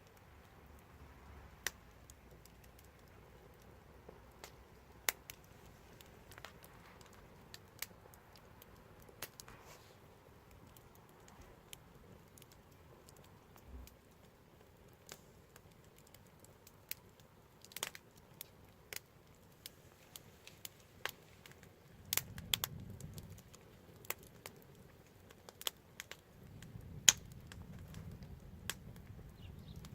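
Wood fire crackling: irregular sharp snaps and pops, some much louder than others, over a faint low hiss. A low rumble rises briefly about two-thirds of the way in and again near the end.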